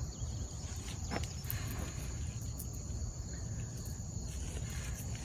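Quiet outdoor ambience: insects chirring steadily in a faint high band over a low background rumble, with one faint tick about a second in.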